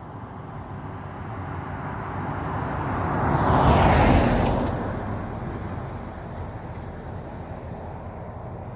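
A truck passing on the highway: road and engine noise that swells to its loudest about four seconds in, then fades away.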